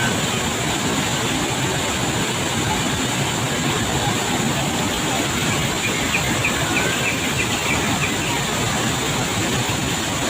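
Waterfall: a steady, dense rush of falling water, with a short run of faint high chirps about six to seven seconds in.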